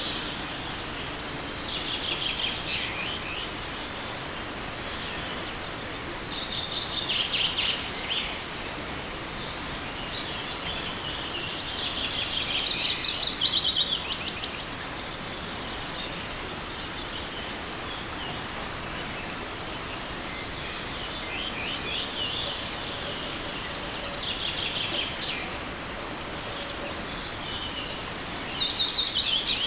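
A songbird repeating a short, fast trilled song phrase about every four to six seconds, over the steady rush of a forest stream.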